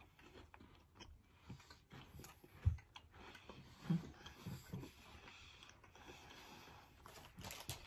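Faint chewing of bites of a Twix caramel cookie bar, with scattered soft clicks and a few low thumps, the loudest about three and four seconds in.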